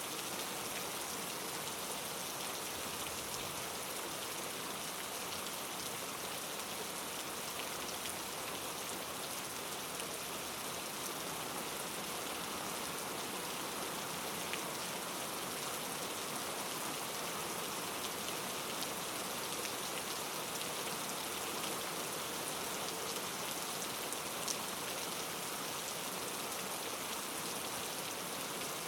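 Steady rain falling, an even hiss with faint individual drops ticking on a surface.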